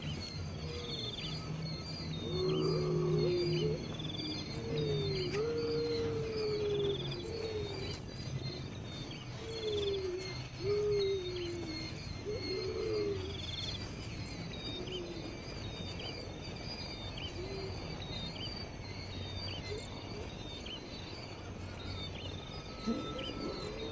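Insects chirping steadily, with a bird's low, sliding calls repeated over about ten seconds and again near the end.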